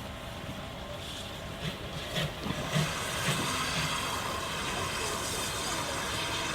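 Steam locomotive letting off steam: a steady hiss sets in about three seconds in over a background of railway noise, with a few low knocks just before it.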